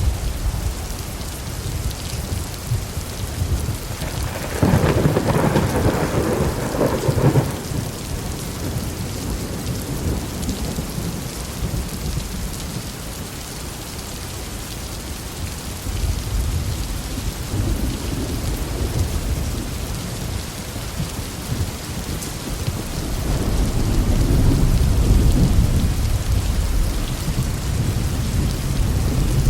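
Heavy rain falling steadily, with thunder: a loud, crackling thunderclap about five seconds in, and later two lower rumbles of thunder.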